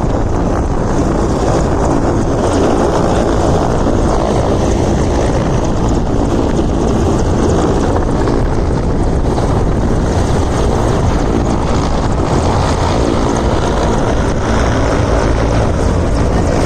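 Helicopter running, a loud steady rotor and engine noise.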